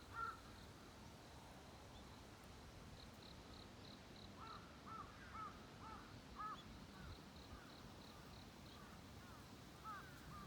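Faint dawn bird calls: a run of about five short, arched calls in the middle, with two quick series of high, thin notes from a smaller bird.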